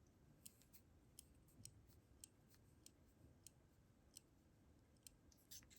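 Faint, irregular small clicks from the date quick-set corrector of a Seagull ST1654 multi-calendar wristwatch being pressed to advance the date.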